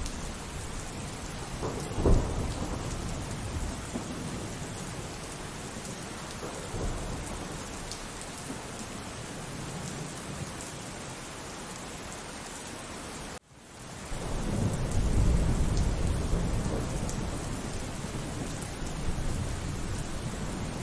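Steady rain with thunder: a sharp thunderclap about two seconds in, then, after the sound cuts out for an instant past the middle, a long low rumble of thunder that swells and slowly dies away.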